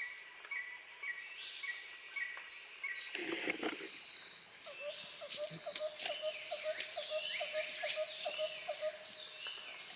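Woodland ambience: a steady high insect drone with birds calling in repeated short chirps. About halfway through a lower, fast-repeating call joins in.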